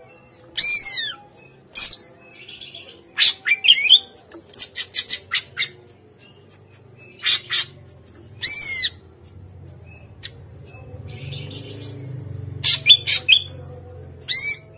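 Cucak ijo (green leafbird) calling in loud, harsh squawks and sharp chirps. The calls come in short separate bursts with sweeping notes and a quick run of notes about four seconds in.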